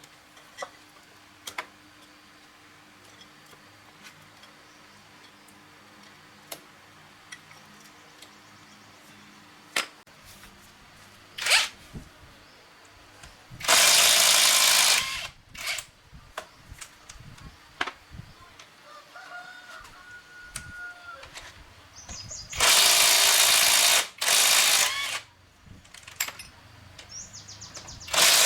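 A handheld power tool run in four short, loud bursts of one to two seconds each, the first about halfway in and the last right at the end. Scattered clicks and knocks of metal parts and tools being handled come in between.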